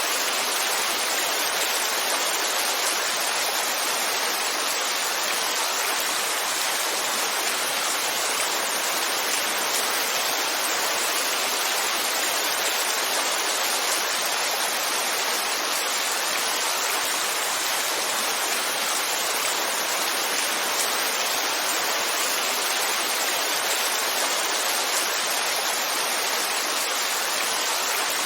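Heavy rainfall as a steady, dense, even hiss, with no distinct drops, thunder or changes.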